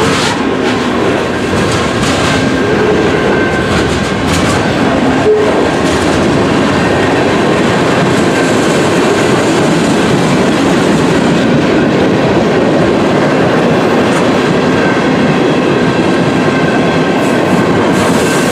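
CN freight train's cars rolling past, a loud, steady noise of steel wheels on the rails, with one sharp click about five seconds in.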